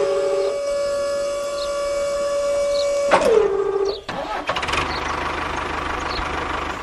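A small motor running with a steady high whine that twice drops sharply in pitch and settles lower. It then stops and gives way to a lower, pulsing engine-like running sound.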